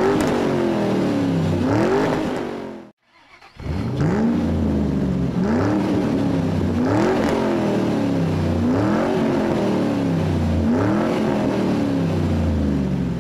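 Car engine revving over and over, each rev a rising sweep in pitch that falls away, about one every two seconds. It cuts out briefly about three seconds in, then picks up again.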